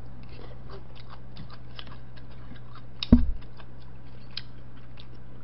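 Close-up mouth sounds of a person chewing boiled chicken: soft wet clicks and smacks. One louder thump comes about three seconds in, over a steady low electrical hum.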